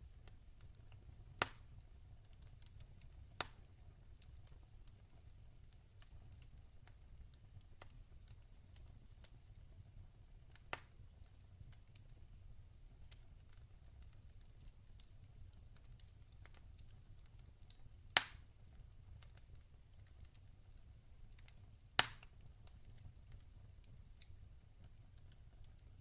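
Log fire burning quietly with sparse crackles and a low steady rumble, broken by a handful of sharp pops, the two loudest in the second half.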